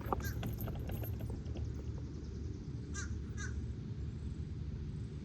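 A crow cawing twice in quick succession about three seconds in, over a steady low rumble.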